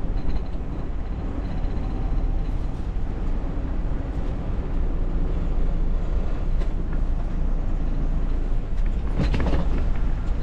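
Semi-truck's diesel engine running with a steady low rumble as the tractor is parked. About nine seconds in there is a brief burst of noise.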